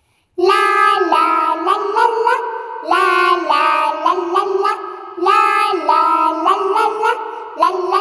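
Children's song intro: a high, child-like sung melody over music in repeating phrases, starting about a third of a second in.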